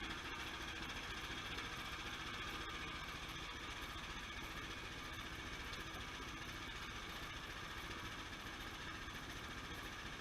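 Sawmill running steadily, a constant mechanical drone through the whole stretch.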